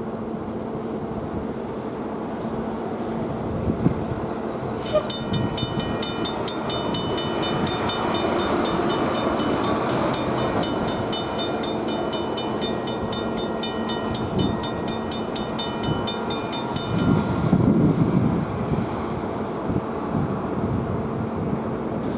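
Diesel engine of slow-moving maintenance-of-way rail equipment running steadily, with grade-crossing bells ringing rhythmically from about five seconds in until about seventeen seconds in. A louder low rumble swells briefly near the end of the bells.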